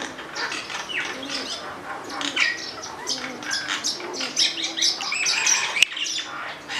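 Several garden birds chirping and calling at once, many quick overlapping high notes, with a few low drawn-out notes underneath and a single sharp click near the end.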